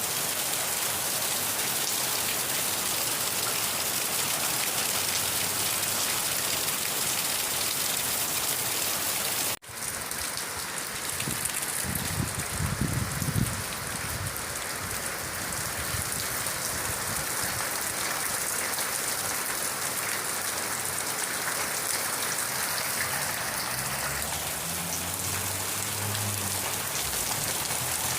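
Steady rain falling on a surface, an even hiss of drops. The sound drops out for an instant about a third of the way in. Low rumbles come shortly after that and again near the end.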